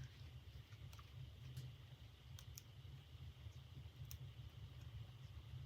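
Faint, scattered small clicks and taps from hands working fabric into a metal clasp purse frame, about five or six in all, over a low steady hum.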